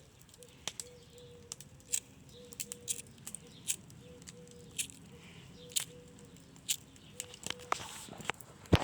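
Campfire crackling: sharp, irregular pops and snaps, roughly one a second.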